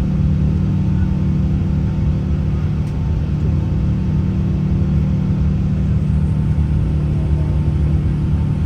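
Steady low drone inside the cabin of an Airbus A380 in flight: engine and airflow noise, with a few constant humming tones over it.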